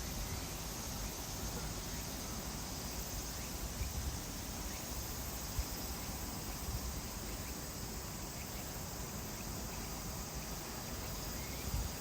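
Insects chirring in a steady, high, even drone, with faint outdoor noise beneath.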